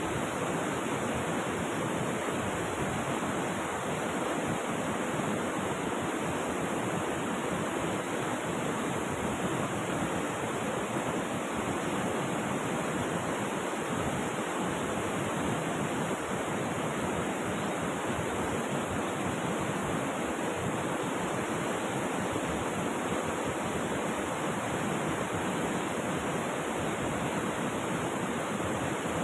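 Rushing water from a river or waterfall, a steady, even rush that does not change.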